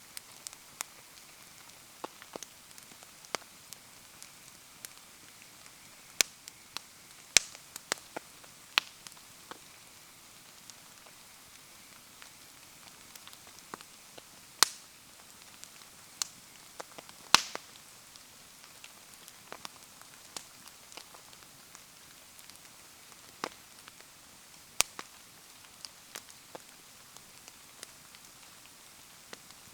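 Wood fire crackling, with scattered sharp pops at irregular times, over a steady hiss of falling rain.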